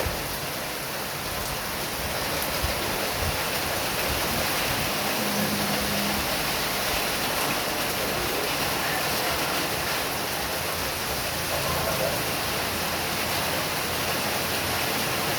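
Heavy rain pouring down in a steady, even hiss, with strong wind.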